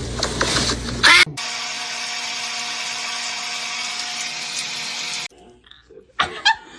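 A small electric motor running steadily for about four seconds, starting and stopping abruptly, after a brief loud sound about a second in.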